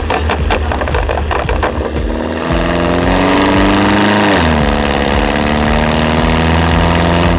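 Mini Cooper S R56's turbocharged four-cylinder running through an aftermarket valved turbo-back exhaust: a rapid series of sharp crackles and pops for about the first two and a half seconds, then a steady engine note that falls in pitch about four seconds in and holds.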